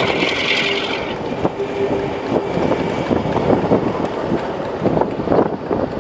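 Diesel-hauled train running on a curve, heard from an open carriage window: wheels clattering on the track under the engine's steady running, with wind buffeting the microphone. A high squeal sounds through about the first second.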